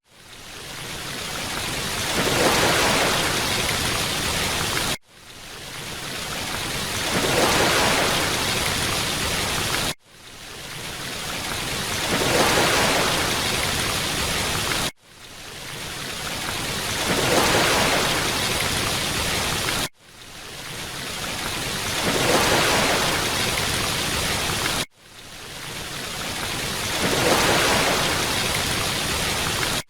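Wide, steady rush of falling water in a short loop. Each pass swells over about two seconds, holds, then cuts off abruptly and restarts, every five seconds.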